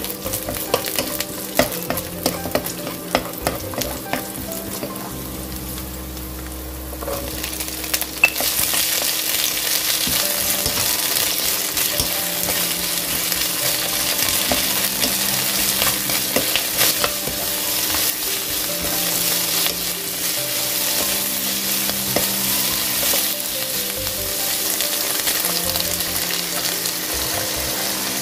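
Sliced garlic sizzling in hot oil in a nonstick pan, stirred with a wooden spatula that taps and scrapes. About eight seconds in, garlic scapes go into the pan and the sizzle turns louder and steadier as they are stir-fried.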